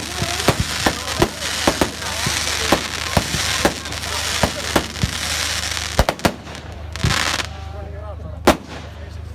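Fireworks going off: irregular sharp cracks, roughly two a second, over a continuous fizzing crackle. The crackle stops about seven and a half seconds in, and one louder bang follows about a second later.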